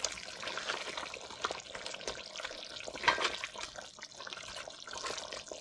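A pot of chicken curry bubbling wetly as it is stirred, with small clicks of the spoon against the pot and one sharper knock about three seconds in.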